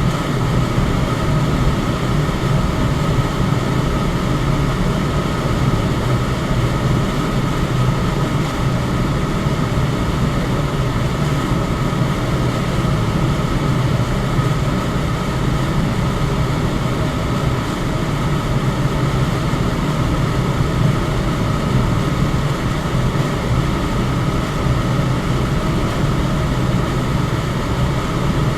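Electric fan running steadily: an even rush of air over a constant low hum, with no change in speed.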